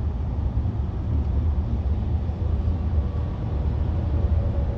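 Steady low rumble of a car heard from inside the cabin, engine and road noise with no sudden bangs.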